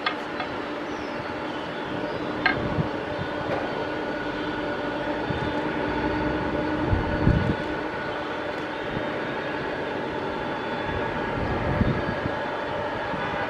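Jet airliner engines running with a steady whine made of several held tones. There are a couple of brief clicks early, and short low swells about 7 and 12 seconds in.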